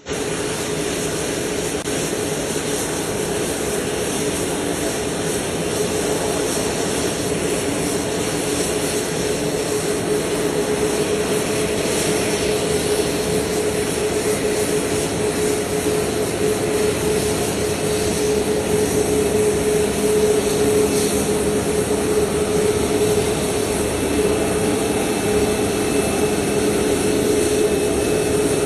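Steady rushing noise of aircraft jet machinery running, with a constant hum under it.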